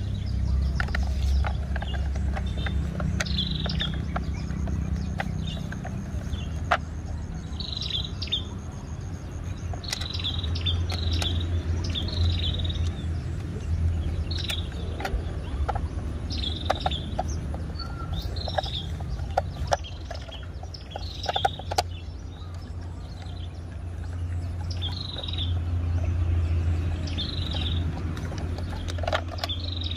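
A bird chirping over and over, one short high call every second or two, over a steady low rumble. Now and then come small sharp clicks from a screwdriver and the plastic parts of a toy car being screwed together.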